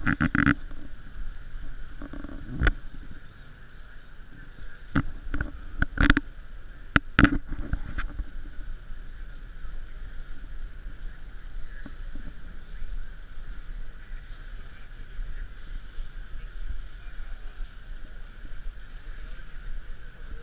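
Steady background noise with a low rumble, broken by a series of sharp knocks and clicks at the start, about two and a half seconds in, and several more between five and eight seconds in.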